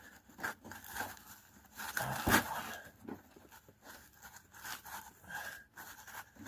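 Hand tools working a hose clamp on a rubber fuel line: scattered clicks and scrapes, with a louder knock about two seconds in.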